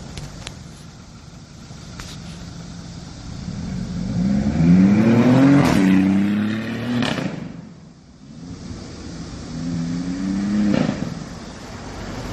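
BMW i8's turbocharged three-cylinder engine through an aftermarket HE'ART loud-type exhaust, idling and then revved twice, its pitch climbing and falling back each time. The first rev is longer and louder than the second.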